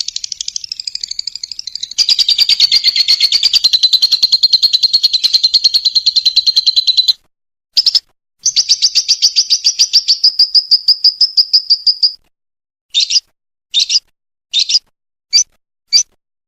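Lovebird ngekek: long, rapid, rattling high trills, one lasting about five seconds and another about four, then a string of five short trill bursts near the end.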